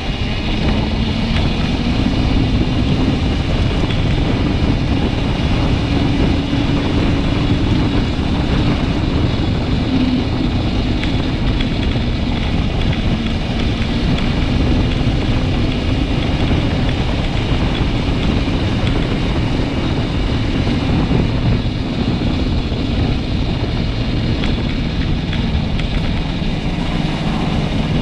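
Motorcycle being ridden at a steady speed, with wind rushing over the microphone and a continuous drone from the bike.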